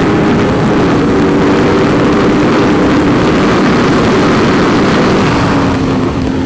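Aprilia Tuono V4's V4 engine pulling hard at high revs, heard onboard over a heavy rush of wind. Near the end the engine note drops lower and gets a little quieter as the revs come down.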